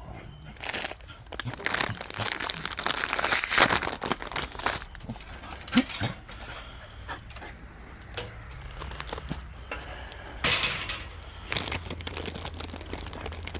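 Crinkling and rustling of a dog-treat packet being handled, in bursts: a long stretch over the first few seconds and another short burst about ten seconds in.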